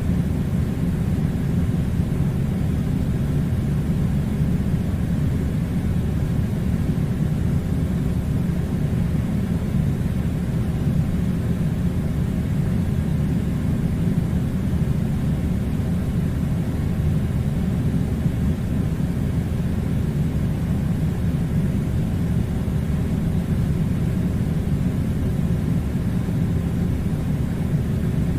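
Air conditioner running: a steady low rumble with a faint hiss, unchanging throughout.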